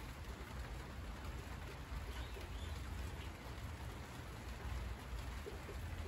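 Steady rain pattering on the large leaves of monstera plants, a dense even hiss over a low rumble.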